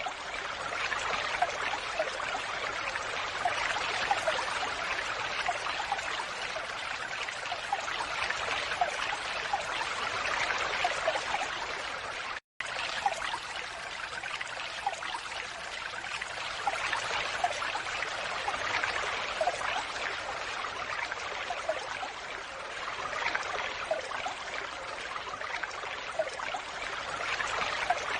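Falling water splashing steadily, with small droplet plinks scattered through it. The sound cuts out for a split second about twelve seconds in.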